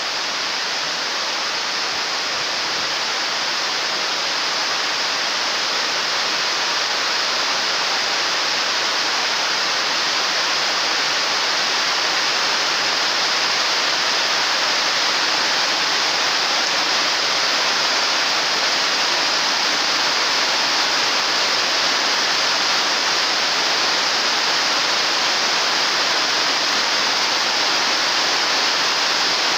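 Heavy rain pouring steadily onto a canopy roof, a dense even hiss that grows a little heavier in the first few seconds.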